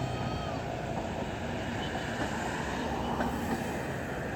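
Express train's passenger coaches rolling past, a steady rumble of wheels on rail with a couple of faint brief squeals near the start.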